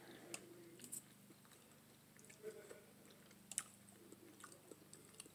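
Faint close-up chewing of curried neck bones and potatoes, with a few sharp clicks of a fork against a stainless-steel bowl, the loudest about three and a half seconds in.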